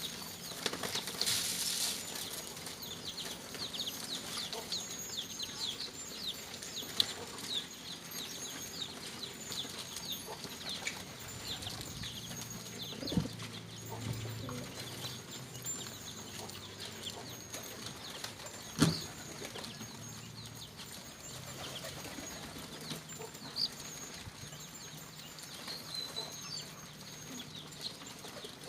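Domestic pigeons at feeding: a long run of rapid, short, high-pitched chirps through the first half, with a few sharp knocks.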